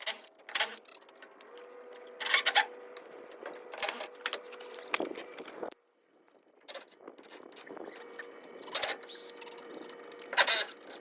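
Irregular knocks, clatters and scrapes of hand work on the wooden mobile chicken coop as its broken handle pieces are taken off, with a dozen or so short strikes and a faint steady hum under them.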